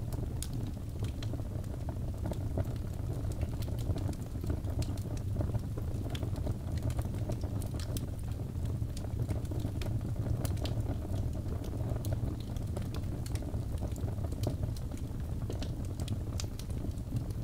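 Wood fire burning in a fireplace, crackling steadily with many sharp, irregular pops and snaps over a low, steady rumble of flame.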